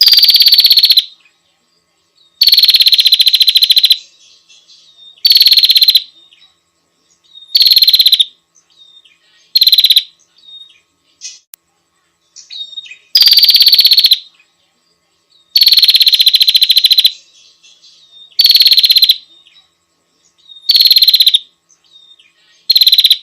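Prinias calling: a series of loud, buzzy, very rapid high trills, each half a second to a second and a half long, with short pauses and faint chips between them. The same run of calls repeats about halfway through, as in a looped training recording.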